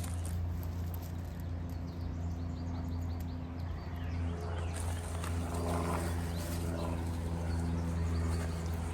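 A steady low hum made of several tones, with a short series of faint high bird chirps about two to three seconds in.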